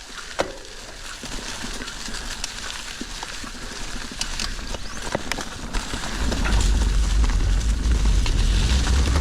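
Mountain bike rolling down a rocky trail, its tyres crackling over stones and the bike rattling with sharp clicks. About six seconds in, a loud wind rumble on the camera microphone builds up as the speed picks up.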